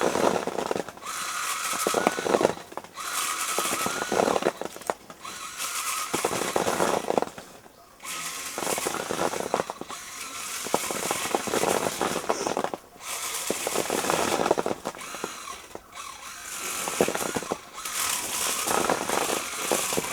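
Battery-powered coffee berry harvester's small electric motor running in repeated bursts of one to a few seconds, with short pauses between, and many small clicks from the vibrating rods working through the branches.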